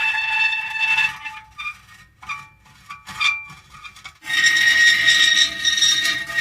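Metal creaking and squealing in long, drawn-out pitched tones. The tones break off about a second in, leaving a quieter gap of about three seconds with a few short creaks, then return loudly.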